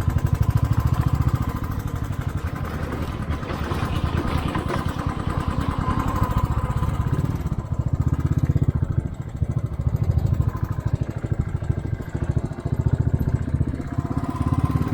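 Motorcycle engine running as the bike is ridden along the road, its loudness swelling and dipping.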